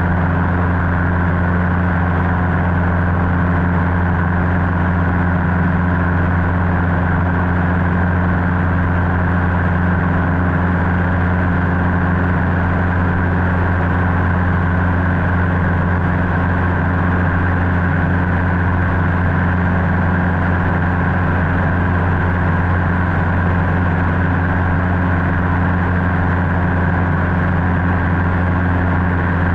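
Cessna 150's Continental O-200 four-cylinder engine and propeller droning steadily in flight, at an even, unchanging pitch.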